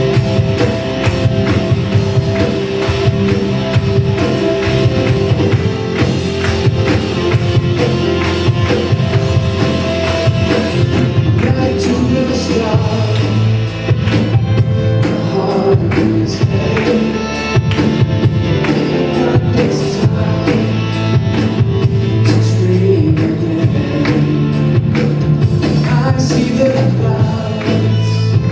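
Live church worship band playing a rock-style worship song, with drum kit and guitar and some singing; the drums become more prominent partway through.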